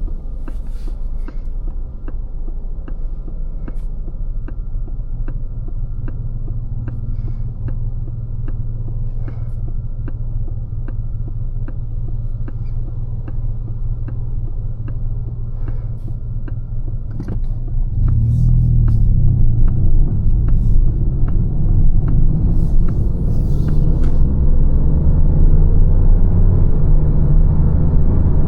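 Lancia Ypsilon driving, heard inside the cabin: steady low road rumble with a turn signal ticking about one and a half times a second. The ticking stops about 17 s in, and the rumble gets louder as the car picks up speed.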